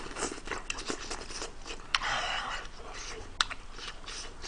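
Close-miked mouth noises of a man eating scalding-hot tofu: wet chewing and smacking with scattered clicks, and a breath huffed out through the mouth about two seconds in to cool the food.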